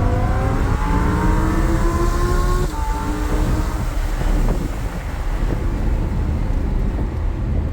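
Lamborghini Huracán V10 engine accelerating hard, its pitch rising steadily for about two and a half seconds, then dropping suddenly at an upshift. After that it runs on lower and rougher under a heavy rumble.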